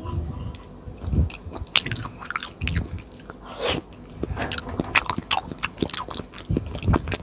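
Close-miked chewing and biting of food, with many small wet clicks and crackles.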